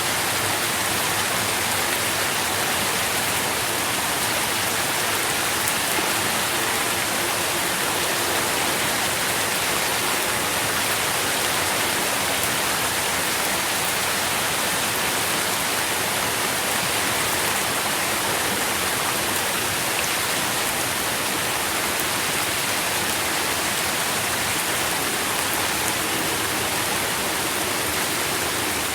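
Steady rain falling, a continuous even hiss of drops with no single drop standing out.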